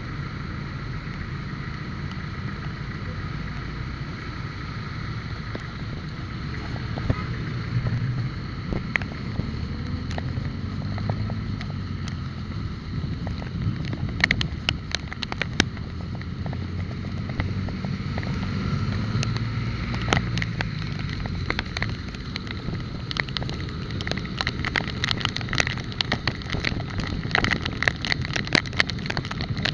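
Wind on a bike-mounted microphone over a steady low road rumble, with clusters of sharp rattling clicks about halfway through and again, more densely, over the last third.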